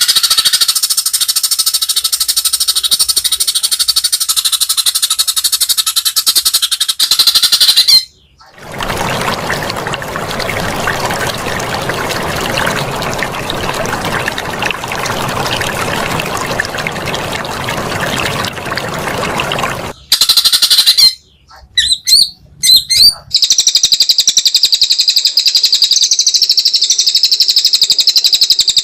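White-rumped shama singing fast runs of high repeated notes. About eight seconds in, a harsh rushing noise takes over for some twelve seconds. After a few abrupt cuts, the rapid high notes return.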